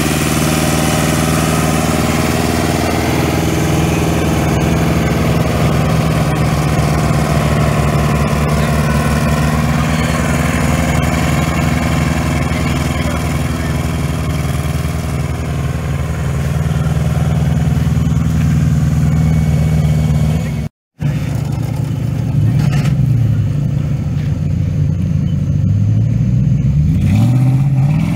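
Tractor engine running at a steady pitch; after a brief break it revs up and down a few times.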